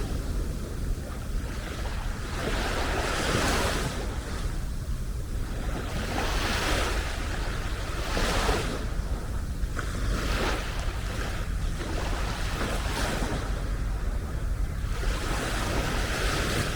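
Small sea waves breaking and washing onto the beach, one swell of surf every two to four seconds, over a steady low rumble of wind on the microphone.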